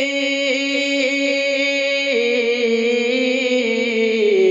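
A man's voice singing a naat, holding one long drawn-out note with a slight waver. The pitch steps down about two seconds in and again near the end.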